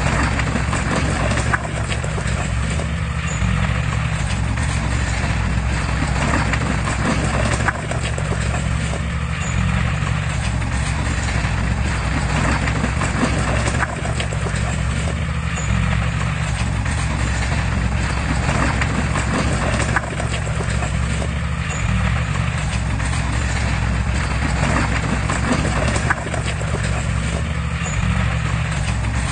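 Heavy-equipment diesel engine running steadily at a constant pitch, with faint repeated clicks and clatter over it.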